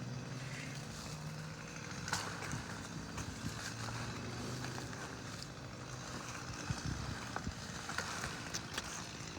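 A steady low engine hum, with a few scattered clicks over it.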